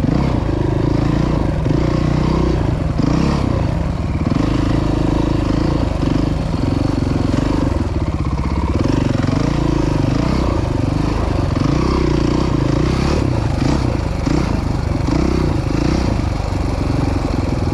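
Dirt bike engine running steadily while riding the trail, its pitch rising and falling again and again with the throttle.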